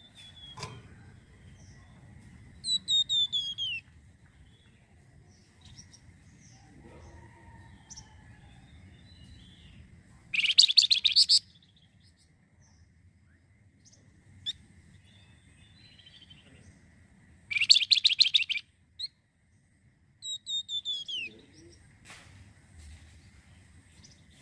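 Song of the songbird Indonesian bird-keepers call flamboyan: short falling whistled phrases and two loud, fast trills about a second long, with a faint steady high tone beneath.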